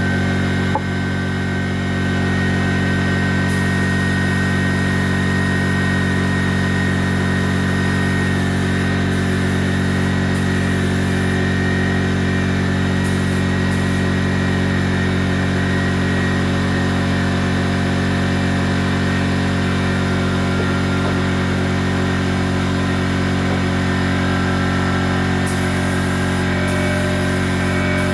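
A motor running at a steady, unchanging speed, with one short knock about a second in.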